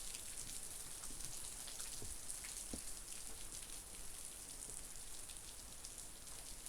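Light rain falling: a steady soft hiss with scattered raindrops ticking.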